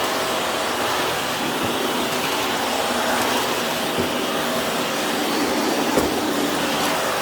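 Vacuum cleaner running steadily, with a single knock about six seconds in.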